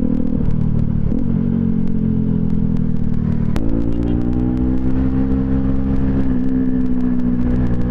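Bajaj Pulsar NS200's single-cylinder engine running under way through an aftermarket twin-pipe exhaust. Its note steps up in pitch about halfway through, then keeps rising slowly.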